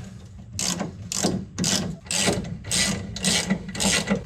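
Hand socket ratchet clicking through repeated back-and-forth strokes, about two a second, as a bolt is undone on the car's steering shaft linkage.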